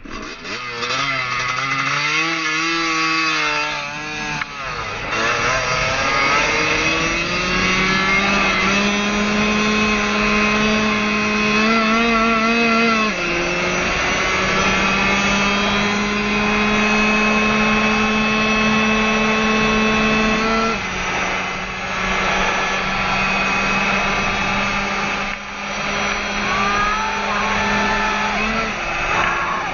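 Dirt bike engine running under way. Its pitch wavers at first, then climbs slowly, dropping suddenly about halfway through and again about two-thirds through as the rider shifts up.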